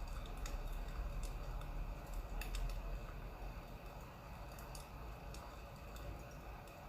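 Crackling wood fire, irregular small pops and snaps over a steady low rumble.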